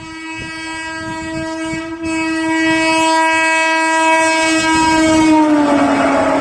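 Train horn sounding one long held note that grows louder as the train approaches. Near the end its pitch drops as the train passes, and the rushing noise of the passing train takes over.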